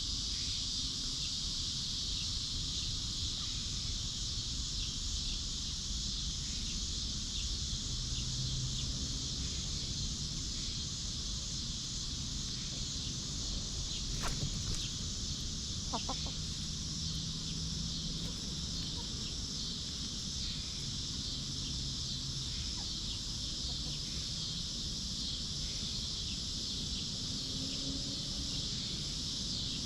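Hens clucking softly at intervals while foraging, over a steady high-pitched hiss, with a couple of short sharp sounds about halfway through.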